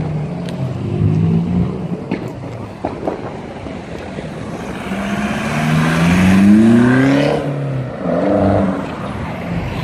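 A modified car's engine revving as the car accelerates away, rising in pitch for about two seconds before cutting off sharply, then a short second burst of throttle.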